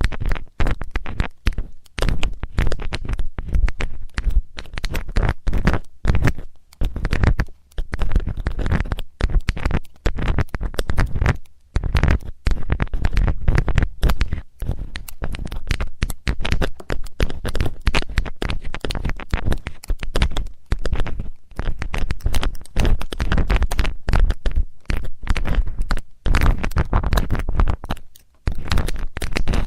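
Metal ear-cleaning tool scraping and rubbing against the ear of a binaural microphone, heard very close: dense crackly scratching with a heavy low rumble, broken by brief pauses.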